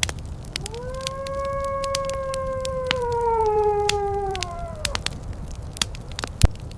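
One long wolf howl of about four seconds, holding a steady pitch and then falling away near its end, over continuous fireplace crackling with frequent sharp pops.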